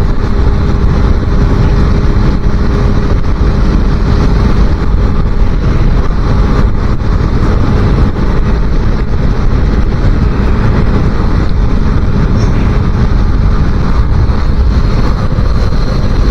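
A 250cc motorcycle running steadily at road speed, heavily overlaid by wind buffeting the microphone.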